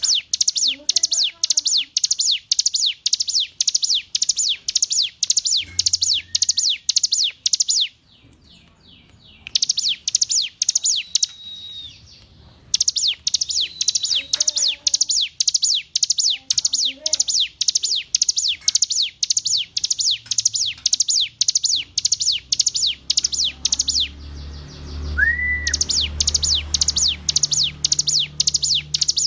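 Ciblek gunung (a mountain prinia) singing a long run of sharp, high, rapidly repeated notes, about three a second. The song breaks off in a few short pauses and starts again each time. One lower, single note sounds about 25 seconds in.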